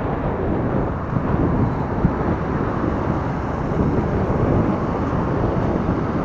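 Wind buffeting the microphone with road noise on a moving recumbent bicycle: a steady low rumble with no distinct events.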